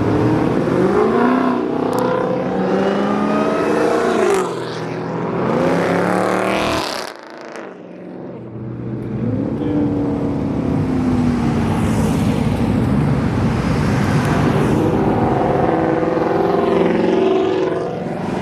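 Several cars driving past one after another, their engines revving up and down through the gears as they accelerate away, with a brief lull about seven seconds in.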